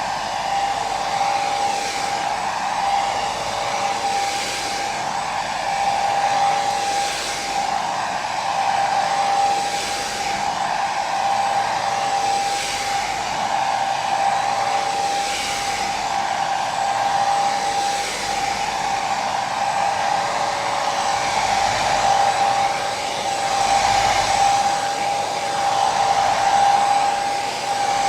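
Hair dryer running steadily: a continuous blowing hiss with a motor whine held on one pitch, swelling and easing gently every couple of seconds.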